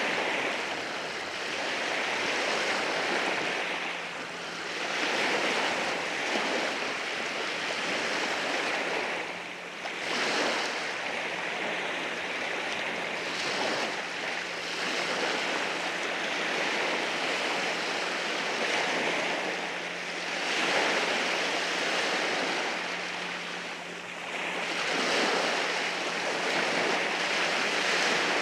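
Sea waves washing in over rocks: a continuous hiss of surf that swells and eases every few seconds.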